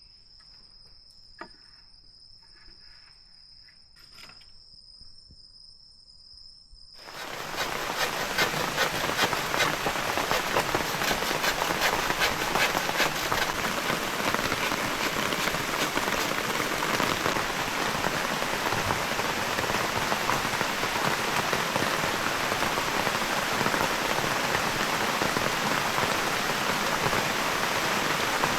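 Faint steady trilling of crickets, then about seven seconds in heavy rain starts suddenly and pours down steadily.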